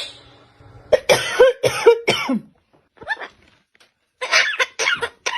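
A parrot making cough-like sounds in several short, rasping bouts.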